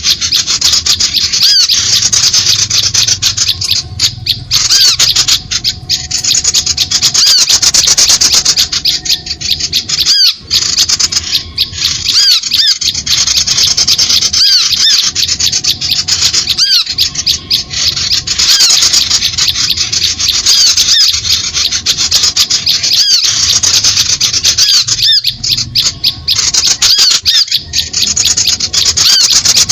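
Dense, continuous high-pitched chattering and squeaking of small birds, many rapid short notes overlapping, as on a bird-lure call recording.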